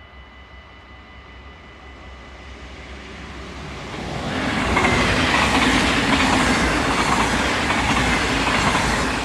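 Double-deck passenger train approaching and passing through a level crossing. The rail noise grows from faint to loud about four to five seconds in, holds loud while the carriages pass, and begins to fade near the end.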